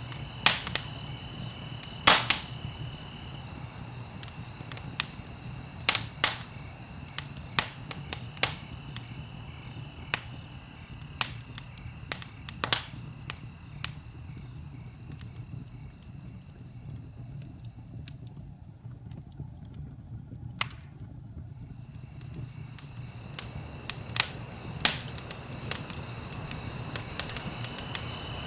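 Wood fire in a fireplace crackling, with irregular sharp pops (the loudest about two seconds in) over a steady low rumble. A faint steady high-pitched tone sits in the background, dropping out in the middle and coming back near the end.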